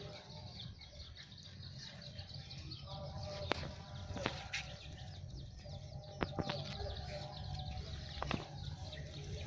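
Birds chirping repeatedly in the background, many short high chirps that fall in pitch, with a few sharp clicks about three and a half, four, six and eight seconds in.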